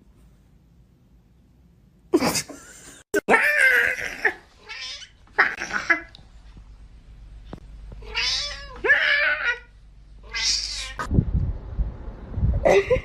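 A cat yowling and meowing, a string of separate drawn-out calls that rise and fall in pitch. A low rumbling with thumps comes near the end.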